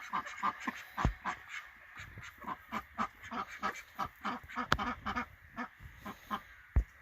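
Call ducks quacking in a rapid, continual run of short quacks, about three or four a second, with a few dull knocks in between.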